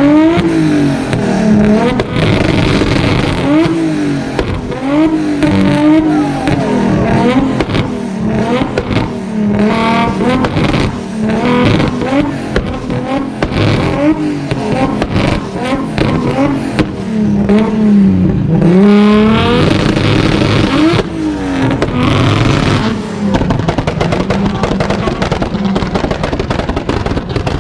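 Car engines revved hard again and again, the pitch climbing and falling back with each rev, with sharp crackles in between.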